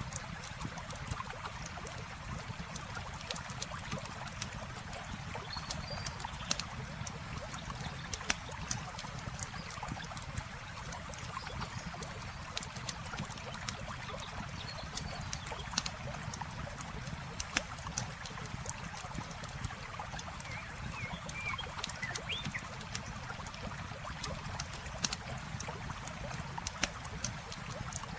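Campfire crackling, with frequent irregular sharp pops, over a steady rush of flowing water from a river.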